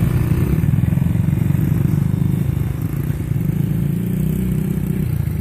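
Small dirt bike engine running steadily with a low, even putter, easing off slightly about three seconds in.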